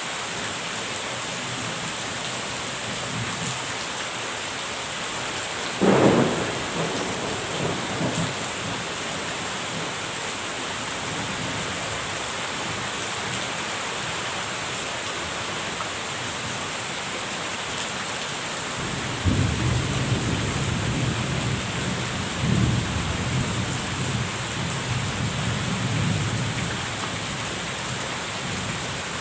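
Steady rain with thunder: a sharp crack about six seconds in that rumbles away over a couple of seconds, then a longer rolling rumble starting about two-thirds of the way through.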